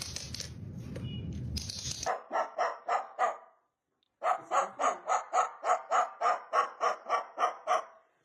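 A low rustling, knocking noise for about two seconds, then a rapid run of short yapping barks, about four or five a second. The barks break off briefly near the middle and start again.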